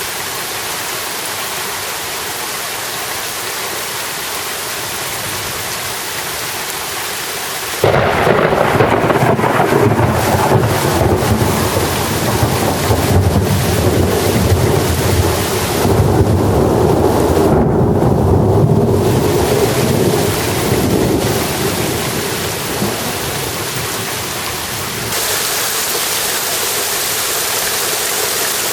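Steady rain hiss, then about eight seconds in a loud clap of thunder breaks in suddenly and rumbles for about a dozen seconds before fading. Near the end the rain grows louder.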